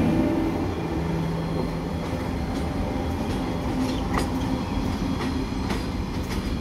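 Frecciarossa ETR500 high-speed electric train pulling away, its rear power car passing close and then receding. The rumble and a low steady hum fade over the first second or two, with a few faint clicks from the wheels on the track later on.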